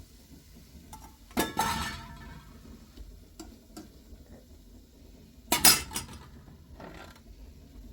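Metal kitchenware clattering twice: a clink about a second and a half in that rings briefly, and a louder clatter about two seconds before the end.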